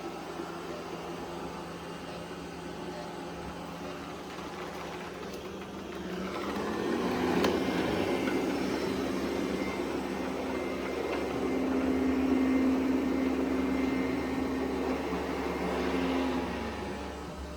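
Roborock Qrevo S robot vacuum running with a steady motor hum. About six seconds in the hum rises in pitch and gets louder, holds, then drops back down near the end.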